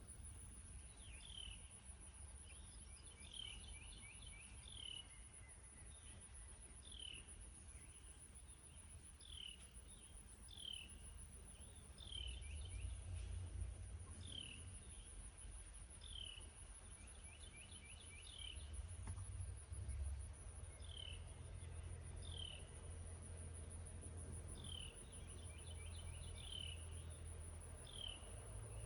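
A steady high-pitched insect trill with a bird repeating short falling call notes about once a second, now and then in quick runs of several, over a faint low rumble that grows louder about halfway through.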